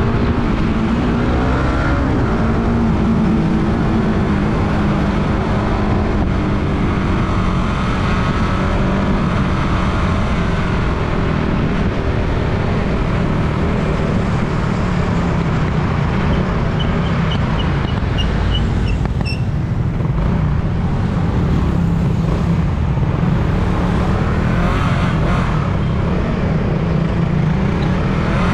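Suzuki Raider 150 Fi motorcycle's single-cylinder four-stroke engine running under way, its pitch rising and falling with the throttle, over steady road and wind noise. A quick run of short high chirps comes about two-thirds of the way through.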